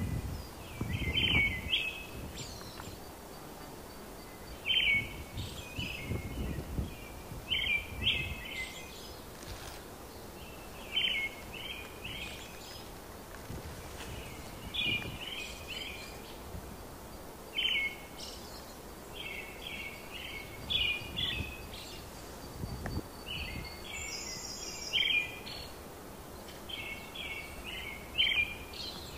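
A songbird singing, short phrases of a few quick notes repeated every couple of seconds, over a faint steady outdoor background, with a few brief low rumbles.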